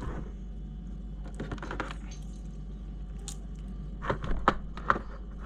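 Scattered small clicks and taps of plastic and metal RC crawler parts and screws being handled while a suspension link is fitted, with a few sharper clicks about four to five seconds in.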